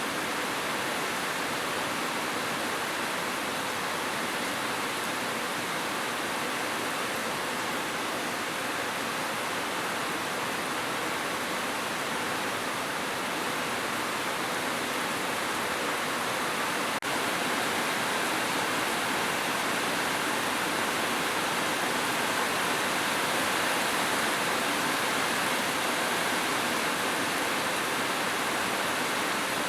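Heavy rain falling steadily on a roof, an even hiss, with a brief break about 17 seconds in after which it runs slightly louder.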